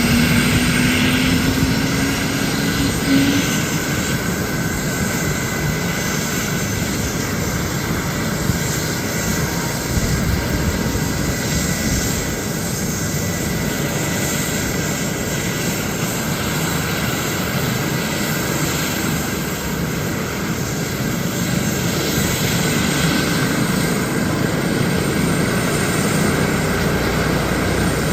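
Rescue helicopter running, its turbine and rotor noise steady and loud, with a thin high whine over it. A low whine rises in pitch and ends about three seconds in.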